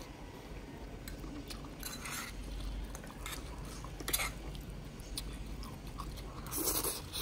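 Close-miked chewing of sausage and spicy instant noodles: soft wet mouth clicks and smacks, broken three times by a short airy hiss from the mouth.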